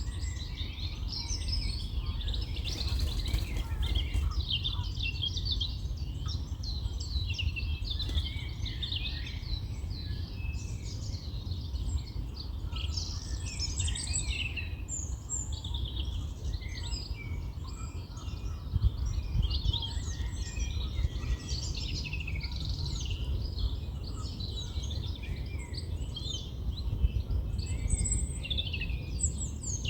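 Several songbirds singing at once, a dense chorus of overlapping chirps and trills, over a steady low rumble.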